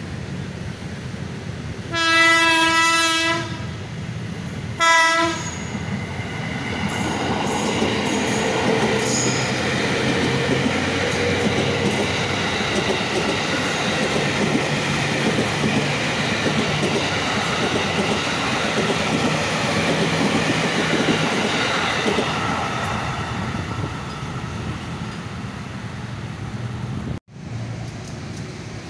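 Electric commuter train (KRL electric multiple unit) sounds its horn twice, a long blast and then a short one. It then runs past close by, its wheels rumbling and clattering over the rail joints for about twenty seconds, until the sound cuts off abruptly near the end.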